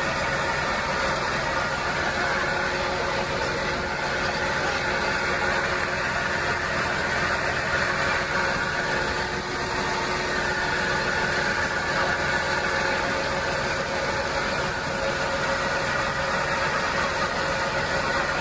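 Fishing boat's engine running steadily, an unbroken drone with several steady tones over it.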